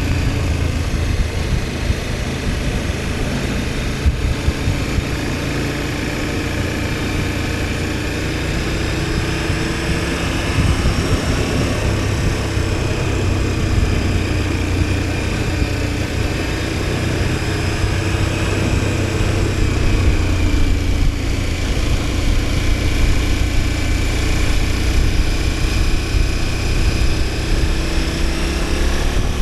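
KTM 1290 Super Adventure S's V-twin engine running steadily under way, its pitch sinking and rising gently a few times as the speed changes.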